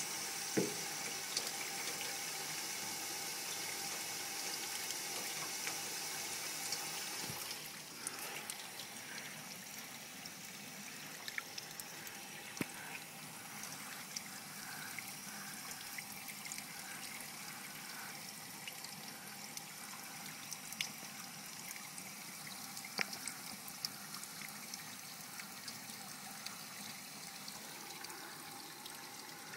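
Water leaking and running steadily, a hissing flow that drops to a quieter trickle about a quarter of the way in, with scattered sharp ticks through the rest.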